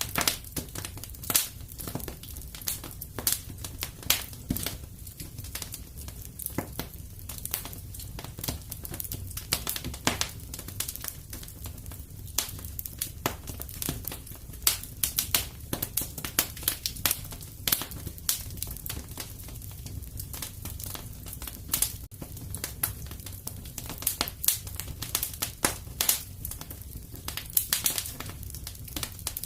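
Wood fire in a fireplace crackling steadily, with frequent irregular snaps and pops over a low rumble of the flames, a few pops sharper and louder than the rest.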